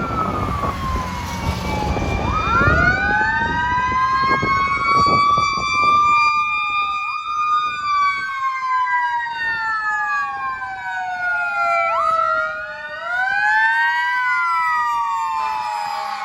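Fire apparatus sirens wailing together, several overlapping tones slowly rising and falling in pitch. One winds up from low pitch about two and a half seconds in, then slowly sags. There is a heavy low rumble in the first few seconds.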